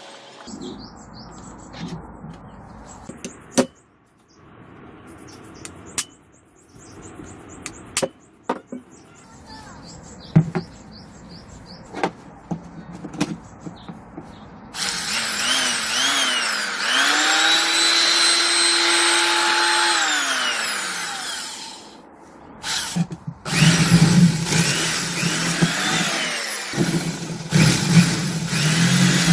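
Restored LG electric drill: scattered clicks and handling knocks, then the motor spins up with a rising whine, runs steadily for a few seconds and winds down. It then runs again, louder and rougher, near the end.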